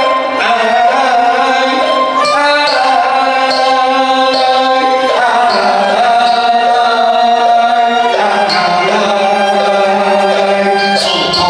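Teochew opera music: a melody of long held notes that slide between pitches, over a light, regular tapping beat.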